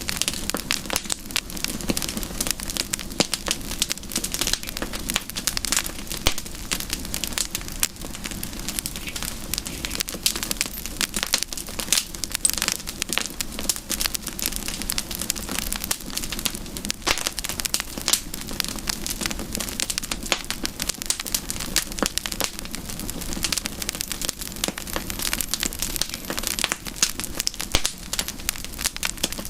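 Campfire crackling steadily, with a dense run of small pops and snaps.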